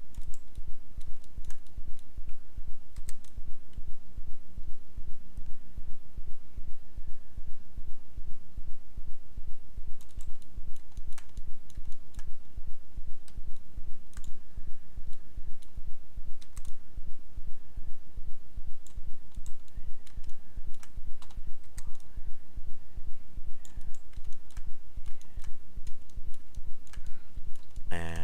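Scattered computer mouse clicks and keyboard taps over a steady low hum that pulses about three times a second.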